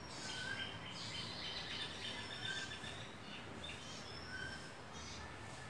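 Small birds chirping: short, high whistled notes repeated in quick runs, busiest in the first couple of seconds, over a faint low hum.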